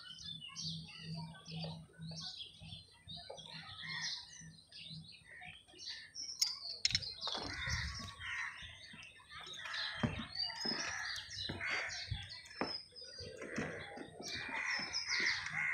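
Small birds chirping over and over. From about halfway through, louder irregular sounds with sharp clicks join in.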